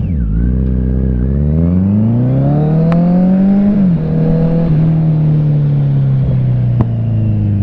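Kawasaki Z900 inline-four engine through a CS Racing aftermarket exhaust, being revved. The note climbs for a couple of seconds, drops, holds, then slowly falls back, with a couple of sharp pops. The popping comes from the air injection system (AIS) not being blocked off.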